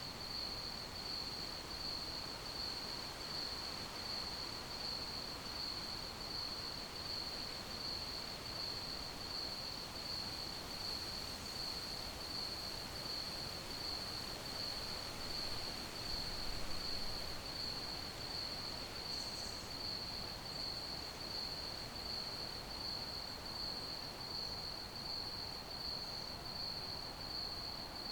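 Crickets chirping in a steady, evenly pulsing trill at one high pitch, over a constant hiss of background noise.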